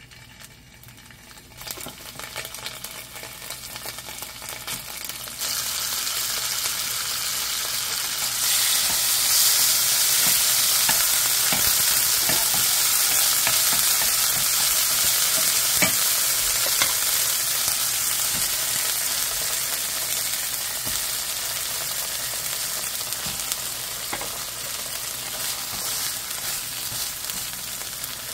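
Grated garlic sizzling hard in olive oil in a nonstick frying pan, with scrapes and taps of a wooden spatula stirring it. The sizzle swells in steps over the first several seconds and stays loud, a sign that the heat is set too high.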